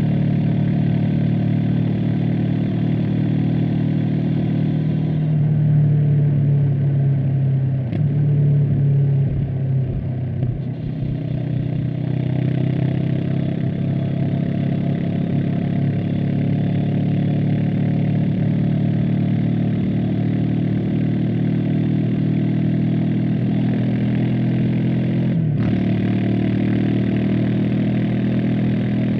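Honda CB500X's parallel-twin engine and exhaust running while the bike is ridden. The engine note holds steady, falls back about eight seconds in and picks up again, with a short break in the note near the end.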